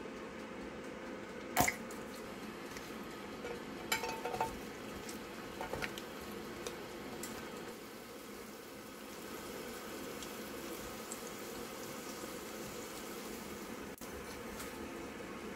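Shredded-cabbage okonomiyaki batter frying in oil in a nonstick pan with a steady soft sizzle. A sharp knock about one and a half seconds in and a few lighter clinks around four and six seconds in, from utensils or the oil bottle against the pan.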